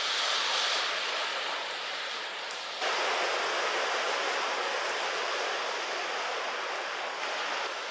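Steady rushing noise that jumps abruptly louder about three seconds in.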